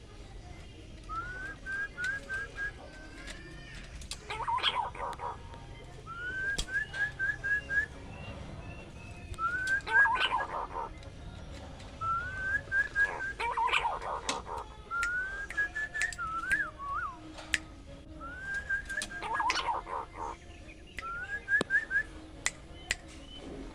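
Punai daun (green pigeon) calling: repeated phrases of four or five quick rising whistles, each followed by a brief, rougher burst of lower notes, about every three seconds.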